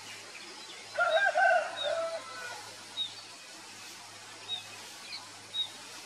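Birds calling: a louder warbling call for about a second, starting about a second in, and short high chirps every second or so.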